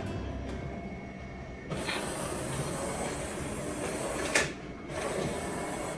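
Jura Z10 automatic coffee machine running: a loud hiss for a few seconds that ends in a sharp click, then a second hiss starts after a short pause.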